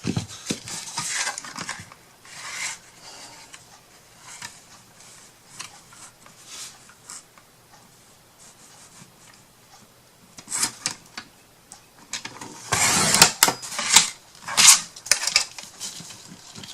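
Craft materials being handled and rubbed on a work table: irregular rustling and scraping of paper and wood, with a louder, busier stretch of scraping a few seconds before the end.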